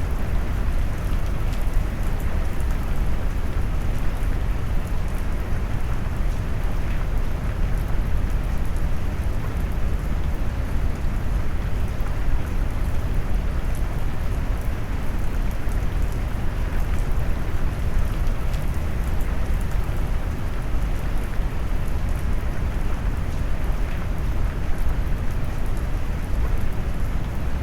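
Brown-noise rain: a steady, deep rain noise weighted heavily toward the low end, with faint scattered raindrop ticks above it and no breaks or changes.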